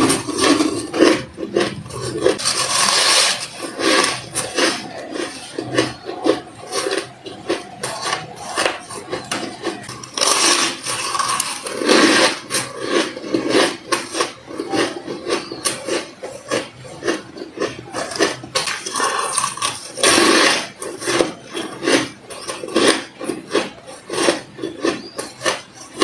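Close-miked biting and chewing of white ice: dense crisp crunching and grinding, with a handful of louder, longer bites spread through.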